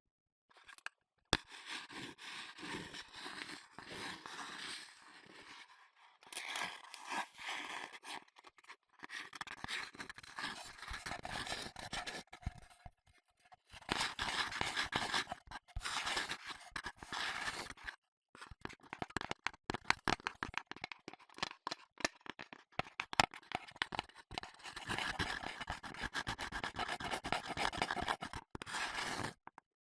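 Close-miked scratching and scraping in quick, irregular strokes with short pauses between runs, the kind of rubbing sound made right against an ASMR microphone.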